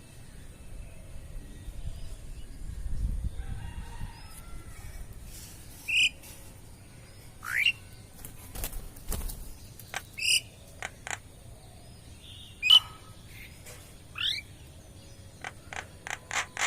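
Birds calling: short, sharp calls every second or two, several of them rising quickly in pitch, with scattered clicks in between.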